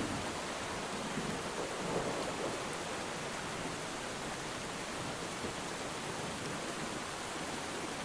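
Steady hiss of rainfall, with a low rumbling swell near the start that fades by about two and a half seconds in.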